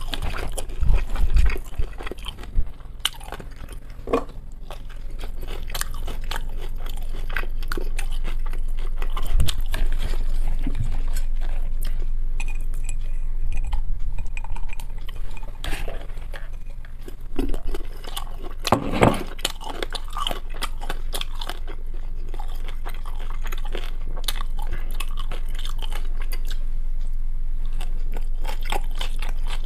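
Close-miked chewing and mouth sounds of a person eating pan-fried dumplings and shredded carrot salad, with scattered clicks and clinks of a fork against glassware and a plate.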